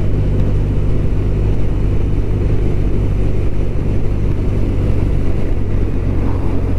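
BMW R1200RT's boxer-twin engine running at a steady cruise with road and wind noise while riding, an even low hum that stays the same throughout.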